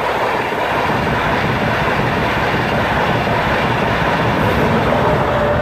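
A Class 91 InterCity 225 express train passing: a loud, steady rush of wheels on rail and air that begins to die away at the very end as the last coaches clear.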